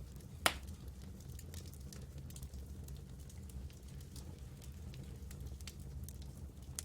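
Campfire crackling, with scattered small snaps and one loud pop about half a second in, over a low steady rumble.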